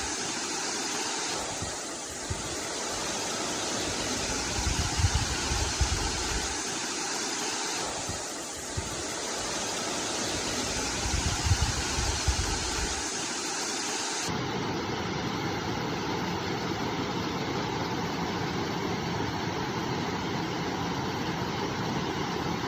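River water rushing steadily, a continuous even noise. Irregular low rumbles come and go in the first part. About two-thirds of the way in, the sound changes abruptly and its highest hiss drops out.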